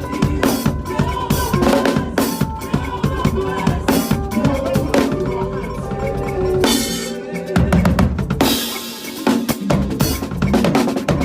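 Drum kit played to a makossa-style praise groove, with bass drum, snare and rim shots over a backing track of keyboard and bass. About two-thirds through the low end briefly drops out, then a cymbal crash leads back into the groove.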